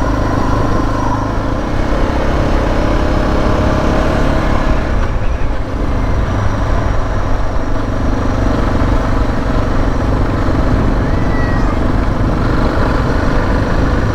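Suzuki DR650's single-cylinder four-stroke engine running steadily under way, its note shifting about five seconds in.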